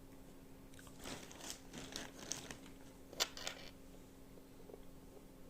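Faint crackly rustling and a few sharp clicks as small plastic and wire electrical parts are handled and fitted, over a faint steady hum.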